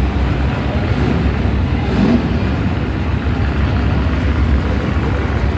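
Car engines running, a loud, steady low rumble.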